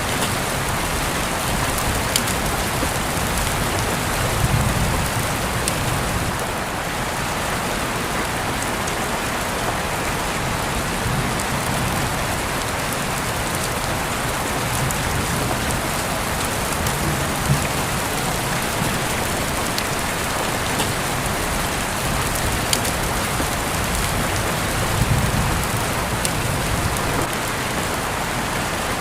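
Steady rain falling, an even hiss with scattered sharp drop ticks and a few low swells underneath.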